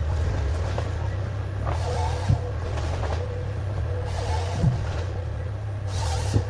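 Diesel engine of a forestry harvester running steadily with a thin whine over it, broken by a few short hisses and three brief knocks.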